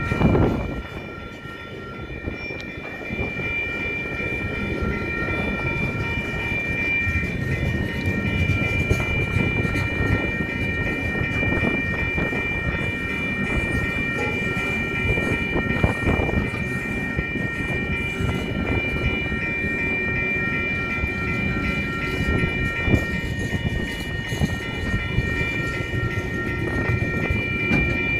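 A freight train's container and loaded log wagons rolling past at a level crossing, wheels rumbling and clacking over the rail joints. A level crossing alarm bell rings steadily over it the whole time.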